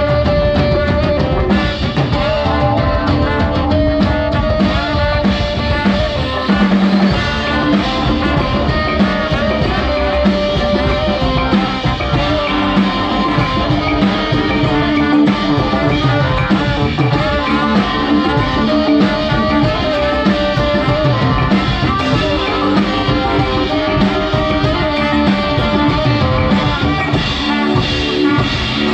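Live band playing a slow song, with drums and held melody notes.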